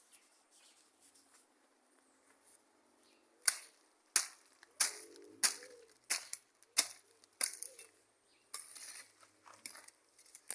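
About six sharp strikes, a little over half a second apart, followed by a softer scraping rustle near the end.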